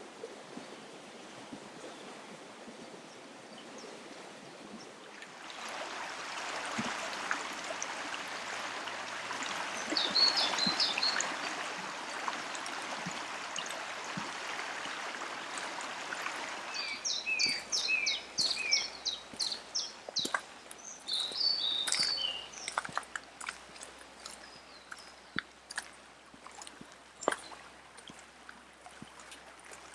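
River water running and bubbling, louder for about ten seconds from around five seconds in, with small birds singing in quick chirps, most of them in the second half.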